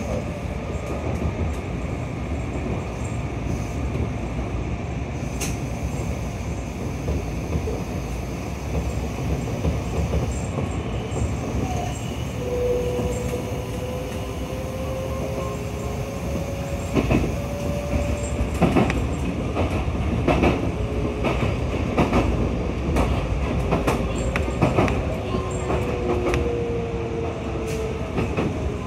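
Kintetsu Yoshino Line electric train running along the track, heard from inside the front of the car: a steady rumble of wheels on rail with a faint whine that drifts slowly in pitch. In the second half comes a series of sharp clacks as the wheels pass over rail joints.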